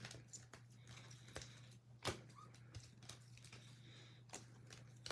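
Faint clicks, taps and light rustles of trading cards being handled and sorted, with one sharper tick about two seconds in, over a steady low electrical hum.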